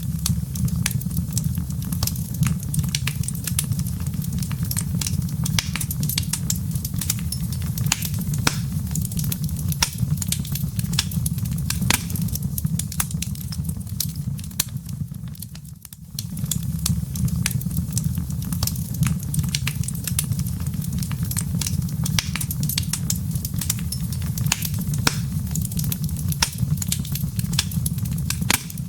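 Wood fire in a fireplace crackling: a dense run of small sharp pops and snaps from burning logs and embers over a steady low rumble of the flames. The sound dips briefly about halfway through, then carries on the same.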